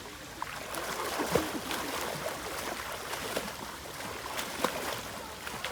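Running water from a mountain stream and its pools, an even rushing hiss broken by scattered small splashes.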